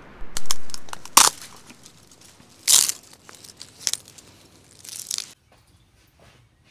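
Crinkling, crackling handling noise: several loud, sharp crackles in the first three seconds, then softer rustles. The steady background hiss cuts off abruptly a little after five seconds.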